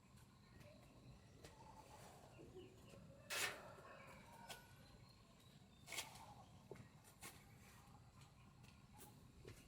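Near silence: faint outdoor ambience with a few soft bird calls, a brief noise about three and a half seconds in and a sharp click about six seconds in.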